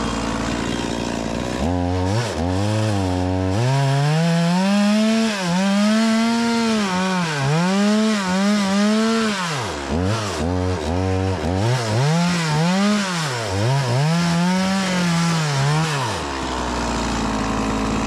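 Stihl MS 180 two-stroke chainsaw idling, then throttled up about two seconds in and cutting into firewood logs. Its engine note sags and recovers over and over as the chain bites into the wood, and it drops back to idle near the end.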